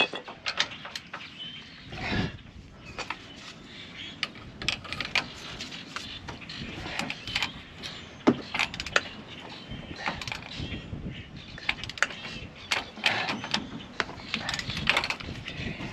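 Scattered clicks and metal clanks of hand tools and parts being handled, with a heavier knock about two seconds in and a sharp click a little after eight seconds.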